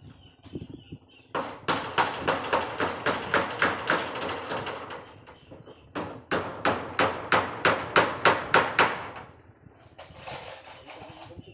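Hammer driving nails in two quick runs of about five blows a second, each run lasting a few seconds: fixing asbestos-cement wall sheeting. A softer rustling noise follows near the end.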